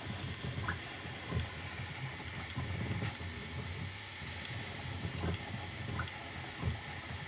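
Bambu Lab A1 mini 3D printer running a print: a low mechanical rumble from its motors, with a few short knocks at irregular intervals.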